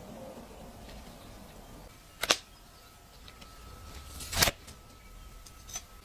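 Two sharp clicks or knocks about two seconds apart, the second preceded by a brief swell, among faint small handling ticks, with a faint steady high tone from about two seconds in.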